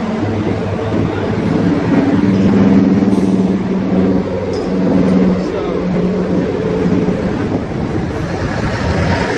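An engine running steadily with a low hum that shifts slightly in pitch.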